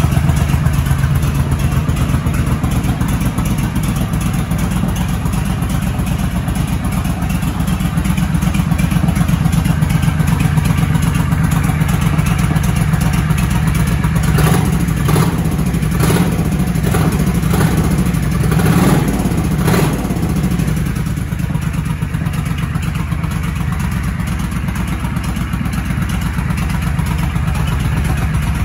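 Honda Shadow 1100 ACE's V-twin engine running at idle, with several short throttle blips about halfway through.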